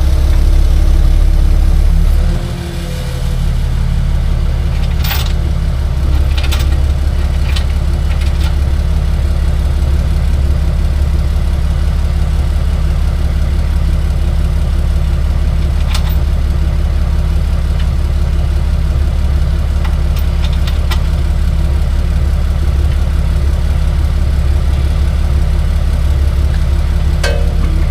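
Tow truck engine running steadily at idle, with a brief dip about two seconds in, while a few light clicks and knocks sound over it.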